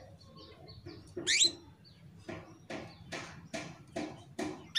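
Female canary calling: a few soft chirps, a sharp rising call about a second in, then a steady run of short, harsh chirps at about two or three a second. This is the call of a hen in breeding condition, used to prompt male canaries to sing.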